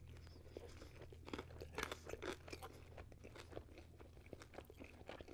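Close-miked chewing of crispy pizza crust: quiet, irregular crunches and mouth clicks, several a second.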